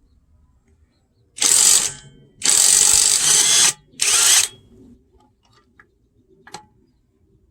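Cordless impact wrench hammering in three bursts: a short one, a longer one of about a second, then a short one.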